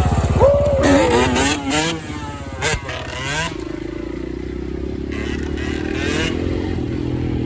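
Dirt bike engine revving up and back down in the first couple of seconds, then running at a steady speed.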